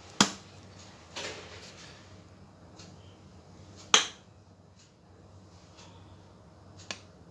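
Kitchen glassware and a spoon knocking on the counter while dessert glasses are filled with lemon mousse: two sharp knocks about four seconds apart, a short scrape about a second in and a faint tick near the end.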